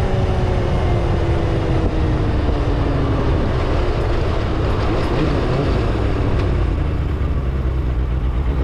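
Vehicle engine running under way, its pitch falling slowly over the first few seconds as it eases off, then a steadier low drone.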